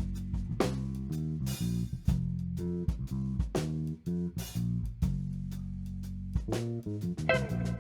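Live band instrumental with no vocals: guitar and bass guitar playing a plucked riff of low held notes and repeated picked attacks.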